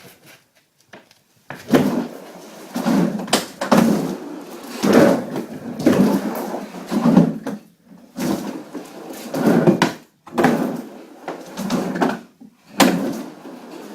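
Skateboard with new wheels and bearings rolling back and forth on a ramp, the wheel rumble rising and falling in repeated swells about once a second. A sharp knock about a second and a half in and another near the end.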